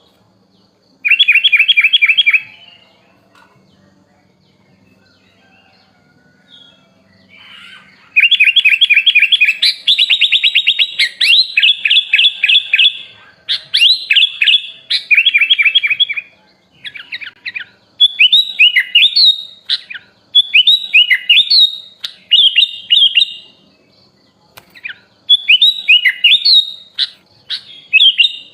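A kutilang (sooty-headed bulbul) songbird singing: bursts of fast, repeated chattering trills and quick sweeping notes, one short phrase about a second in, then phrase after phrase with short pauses from about a third of the way through.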